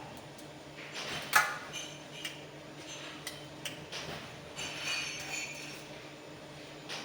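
A few sharp clicks and clinks of small hard parts being handled, the loudest about a second and a half in, with a brief ringing scrape near the middle, over a steady low hum.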